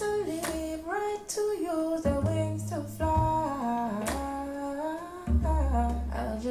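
Recorded music: a woman's voice sings a wordless melody that slides between notes, over deep sustained bass notes.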